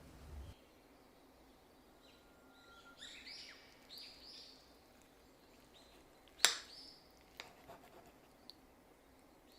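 Birds chirping in short high calls, with one sharp click about six and a half seconds in and a few faint ticks after it.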